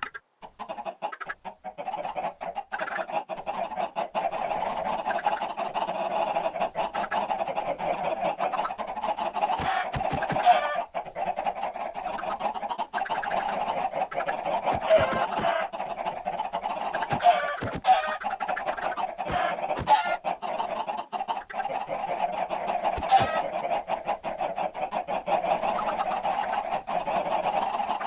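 A flock of chickens clucking all together in a steady, dense chatter, with a few louder squawks standing out now and then.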